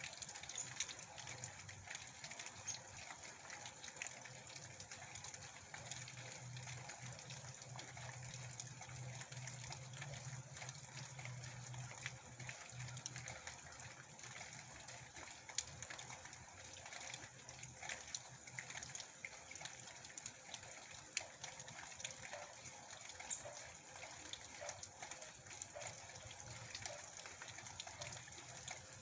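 Heavy rain, with water running and gushing and scattered drops ticking. A low hum comes in from about six to thirteen seconds in.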